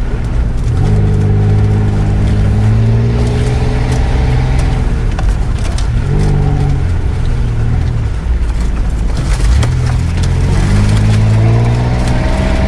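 Off-road 4x4's engine heard from inside the cab, revving up about a second in, holding, easing off in the middle and revving up again near the end as it pulls through mud. A few sharp knocks just past the middle.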